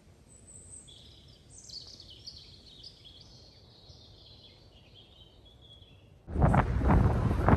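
Small birds chirping faintly in woodland. About six seconds in, a loud rush of wind buffeting the microphone cuts in suddenly and drowns them out.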